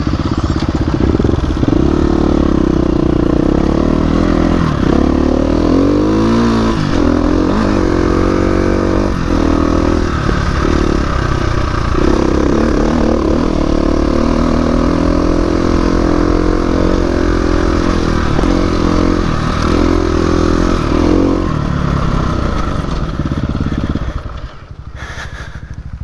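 Dirt bike engine running under way, its pitch rising and falling again and again as the throttle is worked, then dropping away sharply near the end.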